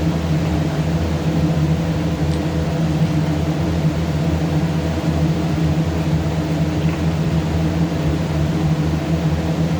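Steady low mechanical hum with a constant pitch, unchanging throughout.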